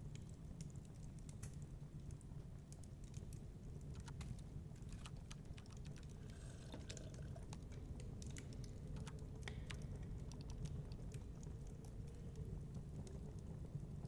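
Fireplace fire crackling: irregular sharp snaps and pops scattered over a steady low rumble.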